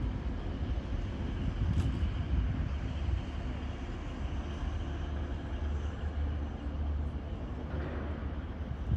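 Red DB Regio two-car regional train running past on a far track: a steady low rumble with a faint hiss above it.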